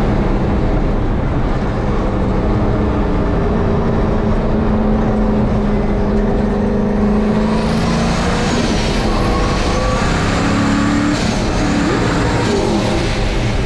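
Turbocharged engine of a 1951 Chevrolet race truck running hard on track, its note rising and falling in pitch several times. Over the second half a high whistle rises and falls above the engine.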